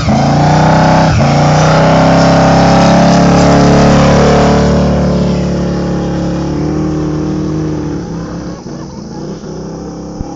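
Holden one-tonner ute's engine held at high revs through a tyre-smoking burnout, then the revs come down and the sound fades over the last few seconds.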